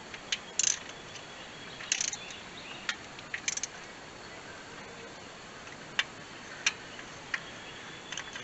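Hand tools working the water pump bolts on an LS V8: scattered sharp metallic clicks, some in short quick clusters, as the bolts are run down tight.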